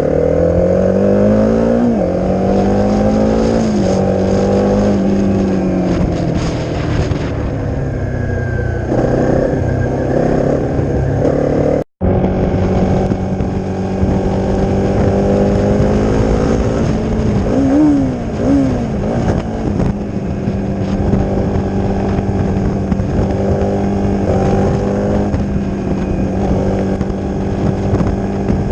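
Honda CRF250's single-cylinder four-stroke engine through a Leo Vince aftermarket exhaust, under way. The revs rise and fall repeatedly through the first ten seconds or so, then hold a steady cruise, with two quick throttle blips a little past halfway. The sound cuts out for an instant about twelve seconds in.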